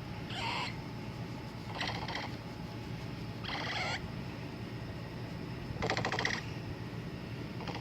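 Capybara giving four short, finely pulsed calls about a second and a half apart, which its owner takes as a sign that it wants to go to sleep. A steady low hum runs underneath.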